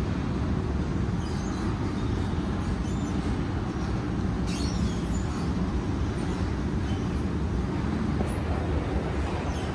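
Shopping-mall ambience: a steady low rumble of crowd and building noise, with a few faint clicks and taps over it.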